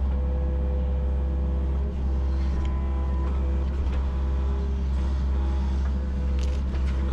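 Yanmar SV40 mini excavator's diesel engine running steadily under load while digging, with a hydraulic whine that comes and goes as the controls are worked.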